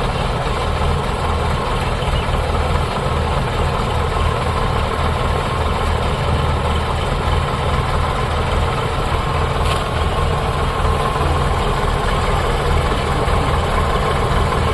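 Sonalika tractor's diesel engine running steadily at a constant speed.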